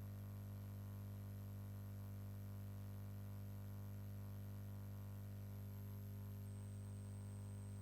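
Faint steady low electrical hum with a very faint high whine over it; nothing else happens.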